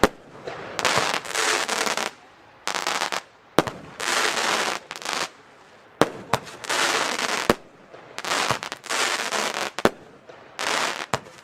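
Xplode Pixel F2 firework battery firing shot after shot. About six bursts of dense crackling hiss, each up to about a second and a half long, are separated by short pauses and single sharp bangs.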